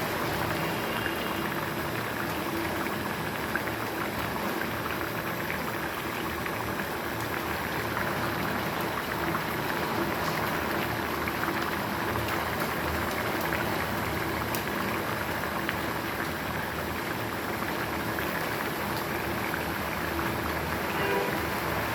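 Chicken curry cooking in a pan, giving off a steady sizzling and bubbling.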